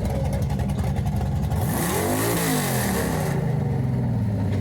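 Car engine idling with a pulsing, lumpy beat, blipped once about two seconds in: the pitch climbs and falls back to idle over about a second and a half.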